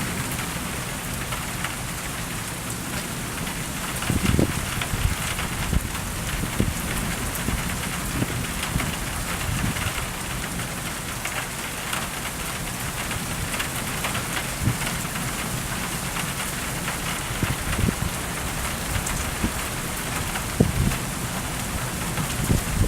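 Rain falling steadily during a thunderstorm, with a few brief deeper bursts, the most prominent about four seconds in.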